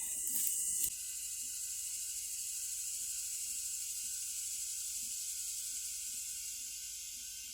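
A short burst of rustling and clicking handling noise in the first second, cut off suddenly. Then a steady high hiss with a faint steady tone beneath it.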